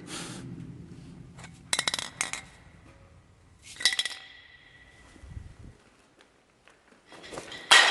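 Metal being struck: sharp clinks and clanks in quick clusters about two seconds in and again about four seconds in, each leaving a short ringing tone. A louder clank near the end rings on.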